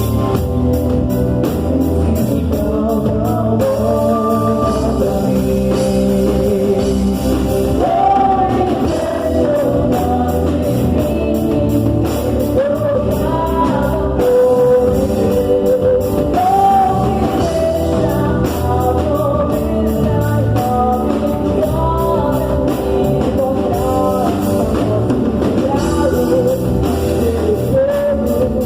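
Live gospel worship music: a band playing a steady rhythm, with a voice singing a wavering melody over it.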